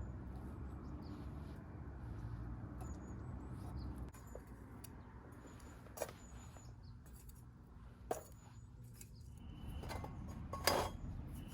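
Quiet outdoor ambience: a steady low rumble with faint, short, high bird chirps. A few sharp clicks come through, about halfway, two seconds later, and loudest near the end.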